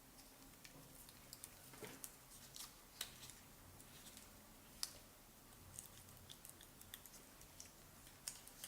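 Faint, irregular clicks and light ticks of small parts being handled during a blender repair, with two sharper ticks about three and five seconds in.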